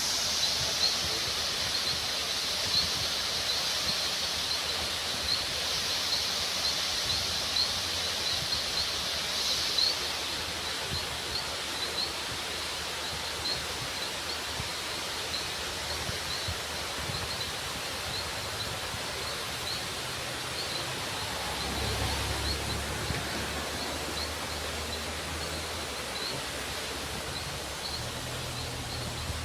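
Waterfall water rushing steadily, with a short high chirp repeating over and over above it.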